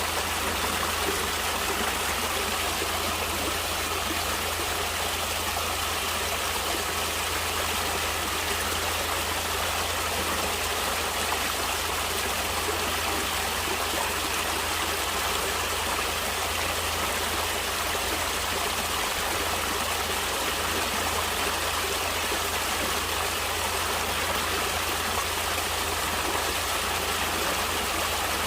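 Natural stream water flowing with a steady, even rush that does not change.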